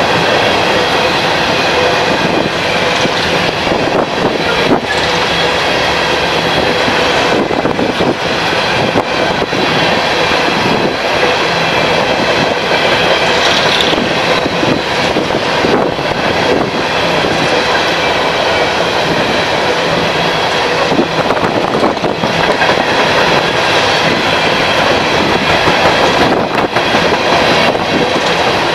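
A train rolling past at close range: a loud, steady rumble of wheels on the rails, with occasional clacks over the rail joints.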